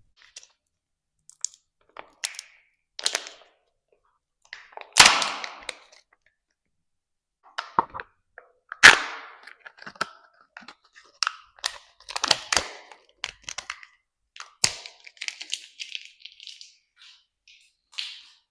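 Sharp cracks and clicks with bursts of crinkling as Kinder eggs' plastic capsules and wrappers are snapped open and handled close up. The loudest cracks come about five and nine seconds in.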